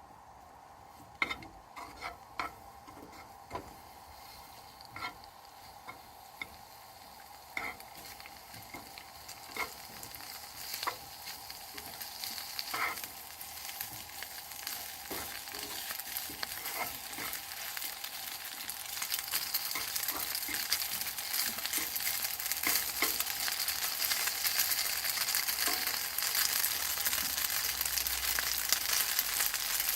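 Leftover stir-fried liver and garlic chives reheating in a frying pan: scattered clicks of a utensil against the pan at first, then a sizzle that builds steadily and grows louder over the second half as the pan heats up.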